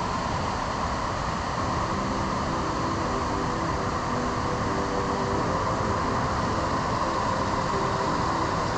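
Waterfall pouring: a steady, loud rush of falling water with no change in level.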